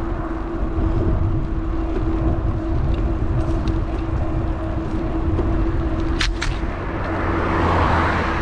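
Wind rumbling on an action camera mounted on a moving electric bike, with a steady whine from the bike's motor. Two sharp clicks come about six seconds in, and a vehicle passes near the end, its noise swelling and fading.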